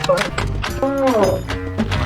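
A cow mooing once, a call of about half a second that falls in pitch, over background music with a steady beat.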